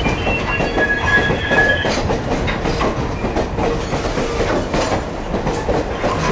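Passenger train car running along the track, heard from inside the car: wheel squeal with high steady tones in the first two seconds, then a steady rumble with the clacking of the wheels over the rails.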